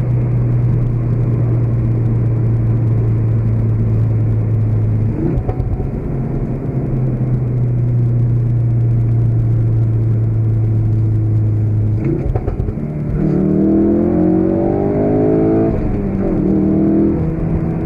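2016 Ford Focus RS's turbocharged 2.3-litre four-cylinder engine holding a steady drone at constant speed, broken briefly twice. From about thirteen seconds in it accelerates hard with revs rising, breaks off for a moment near sixteen seconds, then climbs again.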